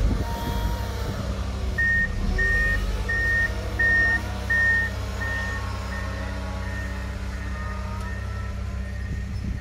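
Steady engine of a snow-clearing vehicle running, with a reversing alarm beeping about once every 0.7 seconds from about two seconds in as it backs up; the beeps grow fainter about halfway through.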